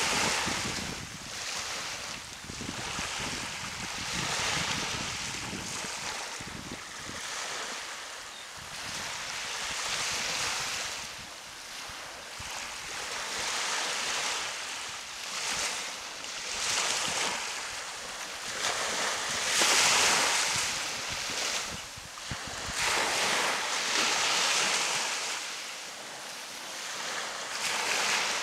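Ocean surf breaking and washing up on a beach, swelling and fading every few seconds with one louder wave about two-thirds of the way in. Wind buffets the microphone with a low rumble until near the end.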